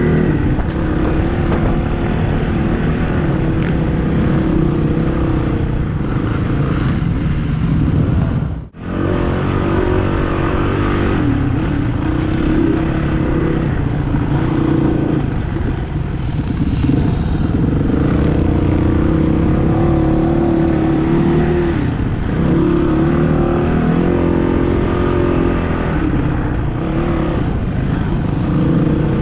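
Dirt bike engine running under riding, its pitch rising and falling with the throttle, cut off abruptly for an instant about nine seconds in.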